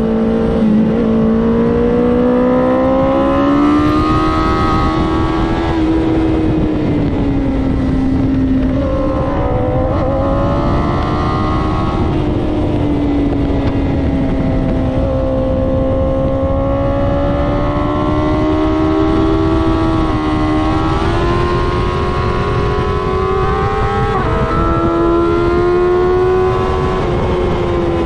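BMW S1000RR sport bike's inline-four engine pulling hard at high revs, its pitch rising and falling with the throttle through the corners, with a few sudden jumps, over steady wind rush on the microphone.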